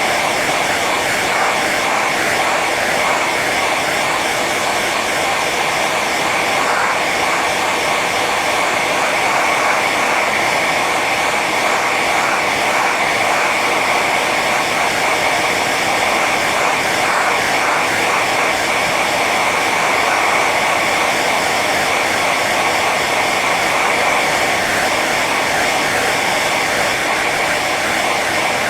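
Hair dryer running steadily on its high setting: an even, unbroken rush of blown air and fan motor with a faint whine in it.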